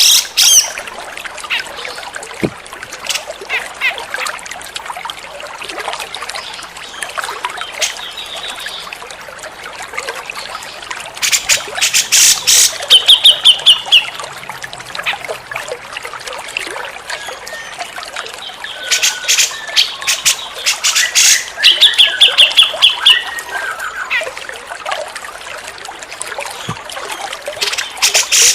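Grey-cheeked bulbul (cucak jenggot) calling in two loud bursts of rapid, harsh repeated notes, each ending in a short fast trill, over a steady background of trickling water.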